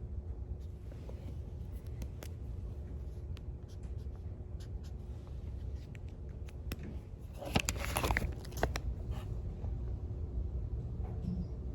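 Pen-and-paper desk sounds: scattered small clicks and taps, with a louder paper rustle or scratching about seven and a half seconds in that lasts about a second, over a steady low room hum.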